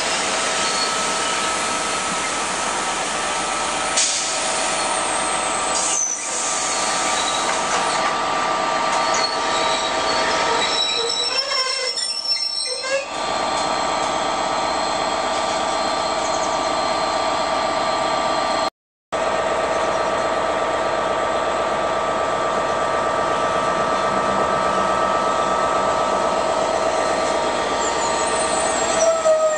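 Passenger carriages rolling past on steel rails, the wheels running with steady high-pitched squealing tones. The sound breaks off for a moment about two-thirds through, then train running noise with the same kind of steady squeal carries on.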